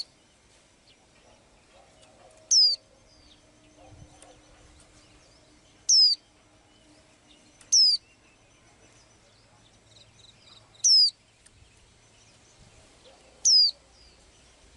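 A small songbird giving a short, high call that falls steeply in pitch, repeated five times a few seconds apart.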